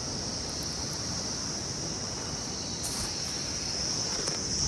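A steady high-pitched chorus of insects in the surrounding vegetation, over a faint background hiss. The chorus fades for a moment about three seconds in, then comes back.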